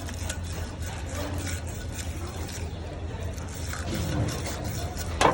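Liquid trickling and splashing over a steady low hum, with one sharp knock near the end.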